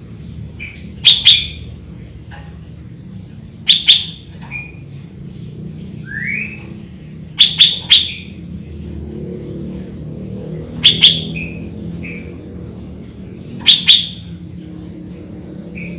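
Sooty-headed bulbul (kutilang) calling: five loud, sharp double notes a few seconds apart, with softer short whistles between them, one of them rising, over a steady low hum.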